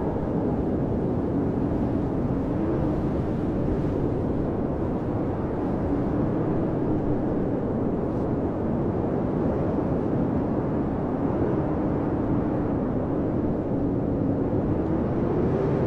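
Blizzard wind blowing steadily, with a low tone wavering up and down in pitch.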